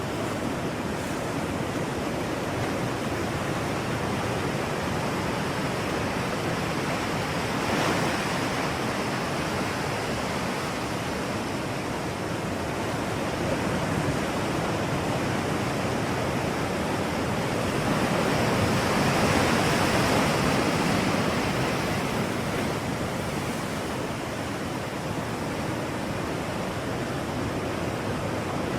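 Steady rushing noise, swelling briefly about eight seconds in and again around twenty seconds in.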